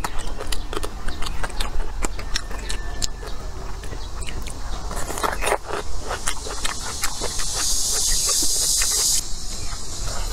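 Close-miked biting and chewing of a cooked bamboo shoot: a run of sharp crunches and mouth clicks. A steady hiss rises near the end for about two seconds and then cuts off abruptly.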